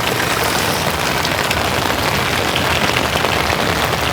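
Steady, fairly heavy rain falling, a dense even hiss thick with close individual drop hits.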